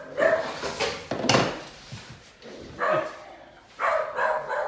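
A dog barking repeatedly in short bursts, with a brief lull in the middle.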